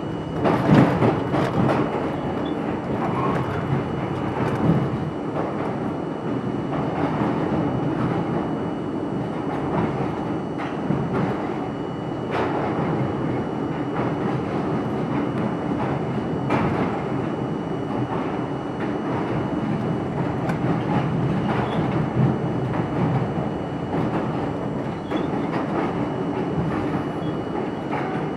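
R42 subway train running between stations: a steady rumble of wheels on rail, with occasional sharp clacks. The loudest clack comes about a second in.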